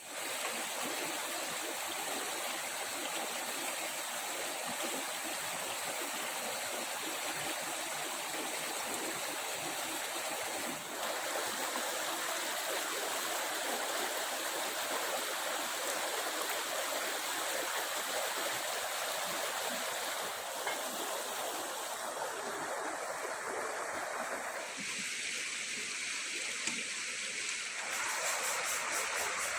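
Running stream water, a steady rushing and gurgling, with a thin high steady tone above it. The texture changes abruptly a few times.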